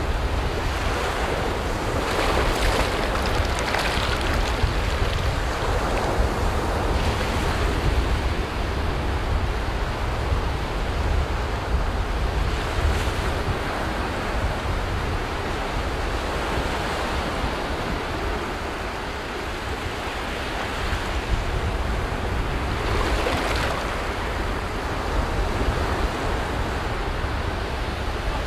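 Sea waves breaking on a beach: a continuous surf wash that swells a few seconds in and again near the end. Wind rumbles on the microphone underneath.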